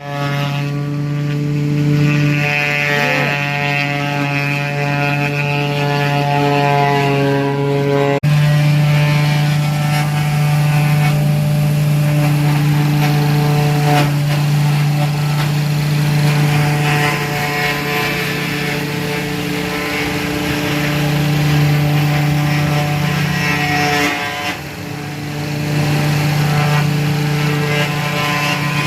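Wood chipper's engine running steadily at a constant speed, with a short drop in level a little after the 24-second mark.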